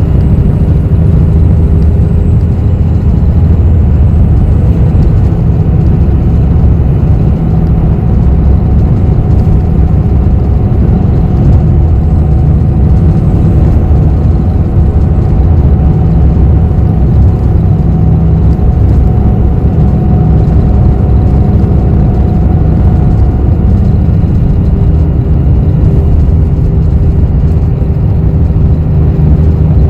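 Ride on a bus: a steady, loud low rumble of engine and road noise, with a faint whine.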